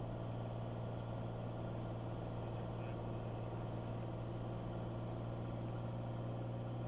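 Steady drone of a Cessna 182's piston engine and propeller in cruise, heard through the cockpit headset and intercom audio feed.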